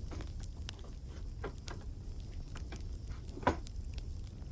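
Wood fire crackling, with scattered sharp pops over a low steady rumble and one louder pop about three and a half seconds in.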